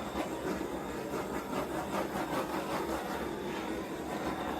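Handheld torch flame hissing steadily as it is passed over wet acrylic pouring paint to pop air bubbles and bring up cells.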